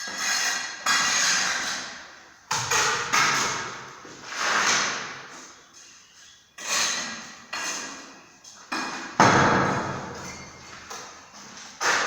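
About ten hammer knocks at uneven intervals, each starting sharply and dying away over half a second to a second, the loudest a little after nine seconds in.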